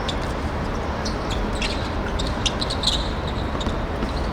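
Outdoor ambience of an amateur football match: a steady, noisy rumble with scattered short, faint clicks and taps.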